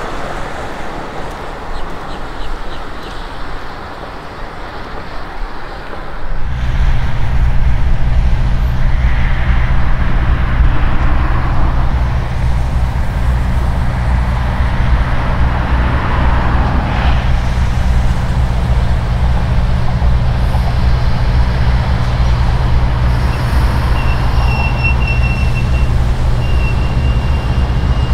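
A passing train's noise fades over the first few seconds, then about six seconds in a steady, loud low rumble sets in and holds, with a faint high tone near the end.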